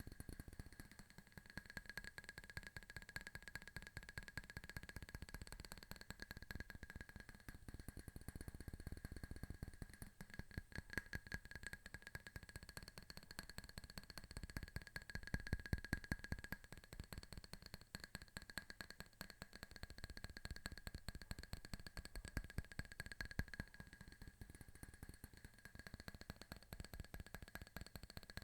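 Fast fingernail tapping, a quick continuous patter of small clicks, quiet overall and loudest about halfway through.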